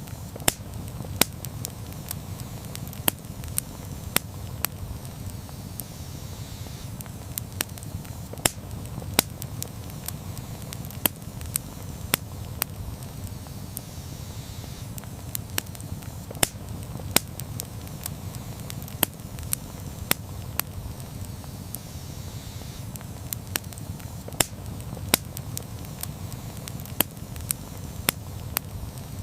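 Wood campfire burning: a steady low rumble of flames with frequent sharp, irregular pops and crackles from the burning wood.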